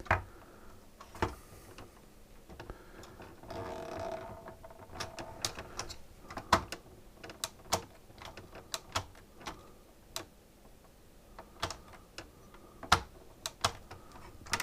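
Irregular light clicks and taps of plastic parts and hoses being handled inside a partly disassembled SodaStream, with a brief scraping rub about four seconds in.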